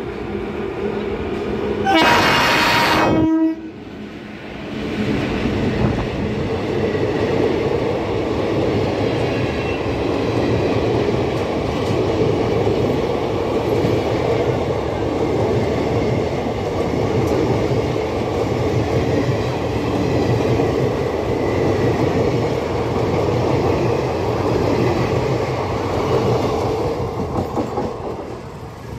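Electric locomotive sounds its horn once, a loud chord lasting about a second and a half. Then the express's coaches pass close by with a steady rumble and clatter of wheels on the rails, fading near the end as the last coach goes by.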